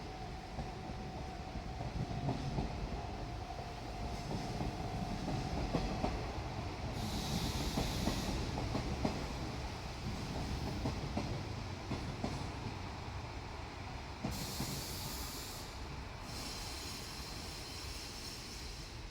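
Diesel multiple unit train rolling past on JR Shikoku track: a steady low rumble with wheel clicks over rail joints. Bursts of high hiss come about seven seconds in, again about fourteen seconds in, and near the end.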